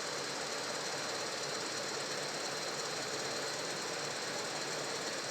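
Motorized treadmill running steadily after repair, its motor and belt giving a constant mechanical noise with a thin high whine; the repairman says the machine now runs well.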